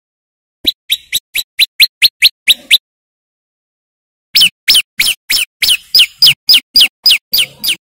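A prenjak lumut songbird giving two rapid runs of sharp, high, sweeping call notes, about four or five a second. The first run starts about half a second in and the second after a pause of a second and a half.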